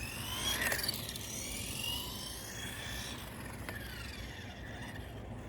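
Carisma GT14 electric RC car running, its motor and gears whining up and down in pitch as it speeds up and slows. There are a couple of short clicks, one under a second in and one around the middle.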